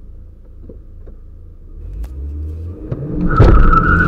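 Car engine at a low rumble, then revving up under hard acceleration from a standstill. It turns loud about three-quarters of the way through, with a high steady whine over the engine note.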